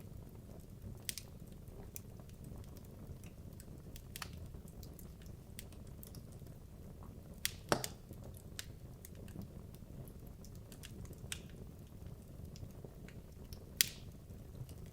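Wood logs burning in a fireplace: a low, steady rumble of flame with scattered sharp crackles and pops, the loudest a cluster of pops about halfway through and another single pop near the end.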